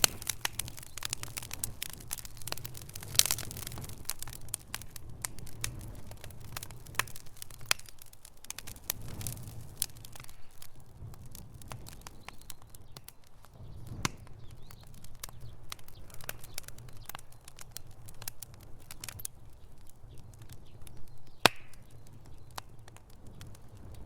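Wood fire in a fireplace crackling: frequent small pops and snaps over a steady low rumble of the flames. Two sharper, louder pops stand out, one a few seconds in and one near the end.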